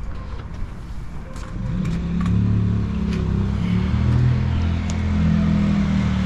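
A motor vehicle's engine running steadily nearby, growing louder about two seconds in and then holding a low, even pitch. A few faint clicks sound over it.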